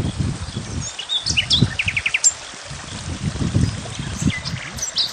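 Wild songbirds chirping, with a quick trill of about five notes a couple of seconds in, over irregular low rumbling gusts.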